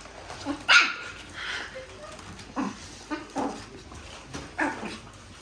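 Pomeranian barking, about five short barks, the loudest about a second in.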